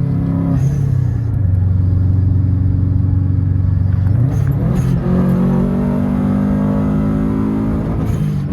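Tuned Subaru car engine pulling through the gears: the engine note drops at an upshift about a second in, holds steady, rises and drops briefly about four seconds in, then climbs steadily in pitch under acceleration before dropping at another shift near the end.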